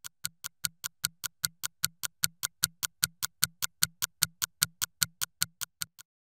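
Evenly spaced, fast clock-like ticking, about five ticks a second, each tick a short click over a low thud; it stops just before the end.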